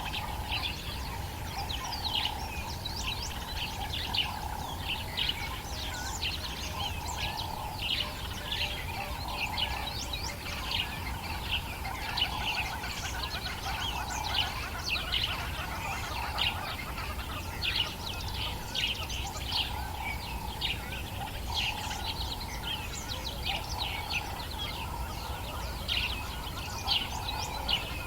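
A dawn chorus of many birds in the African bush: dense, overlapping high chirps and whistles throughout, over a band of lower repeated calls.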